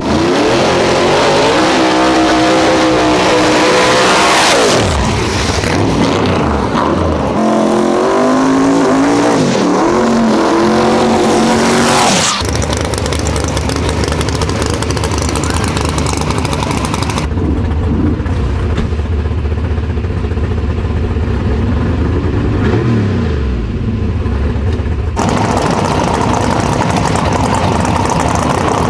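Drag race cars accelerating hard, their engines winding up and dropping back in steps through the gears. Near the end a car goes by with a falling pitch.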